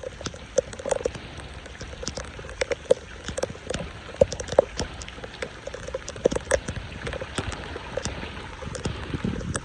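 Water splashing and dripping: many irregular drops and small splashes over a steady wash of running water.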